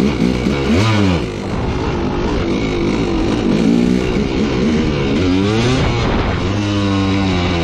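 Old dirt bike's engine revving up and down while being ridden, its pitch rising and falling with the throttle. The rider thinks it is still a little plugged up, though it runs pretty well.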